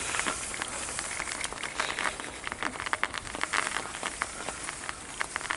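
Footsteps crunching on snow: irregular short crackling crunches over a steady hiss.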